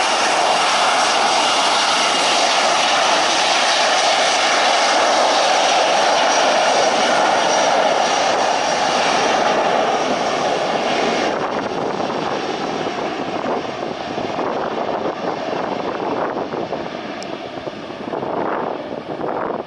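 Airliner engines running loud as the plane passes close, a steady roar with a faint whine above it. About eleven seconds in the high part of the sound cuts off sharply, and the rest then fades.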